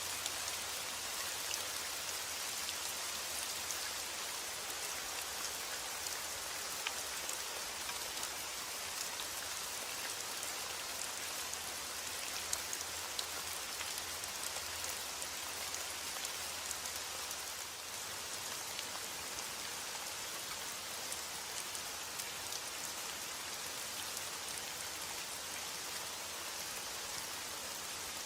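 Steady rain falling, an even hiss with many small drop patters on a surface.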